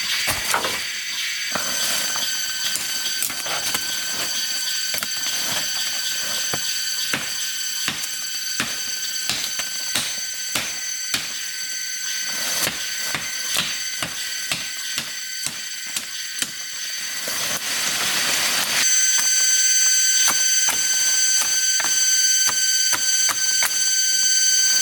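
Many light clicks and taps, roughly two or three a second, over a steady high-pitched ringing drone of several tones. A rushing noise swells up about two-thirds of the way through, and the drone is louder after it.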